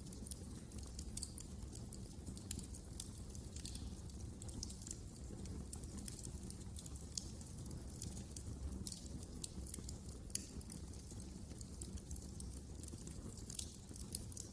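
Wood fire crackling in a fireplace: frequent irregular sharp snaps and pops over a steady low rumble of the burning fire.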